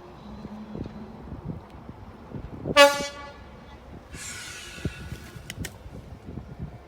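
A train horn gives one short, loud toot about three seconds in. A fainter, hazier sound follows about a second later.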